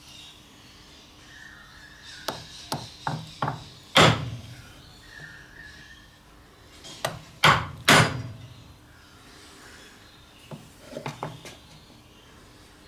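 Wood chisel being struck to chop out a notch in old, dry pine: a few light taps, a hard blow about four seconds in, three more hard blows about seven to eight seconds in, then a few light taps near the end.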